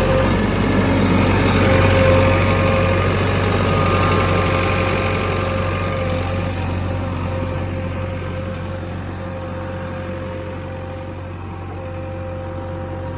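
A heavy diesel engine running steadily, a constant whine sitting above its low rumble, growing gradually quieter through the second half.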